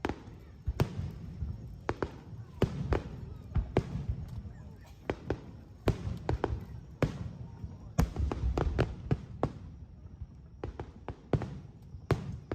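Aerial fireworks bursting in a rapid, irregular series of sharp bangs, a couple of dozen in all, with low rumble between them.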